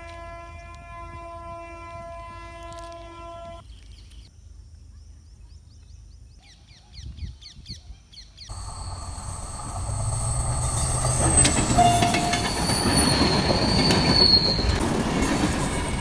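A diesel passenger train approaches and runs past on the rails, starting about eight seconds in: a loud rumble of engine and wheels with high-pitched wheel squeal. Before it, a steady pitched tone with several overtones lasts about three and a half seconds, then a few quieter seconds.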